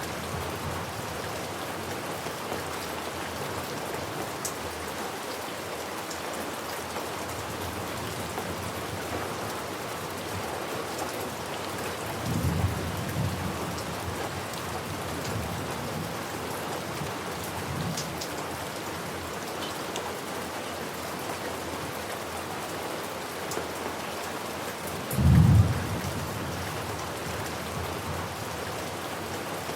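Steady rain falling on a surface, with thunder: a low rumble about twelve seconds in and a louder, sharper clap near the end.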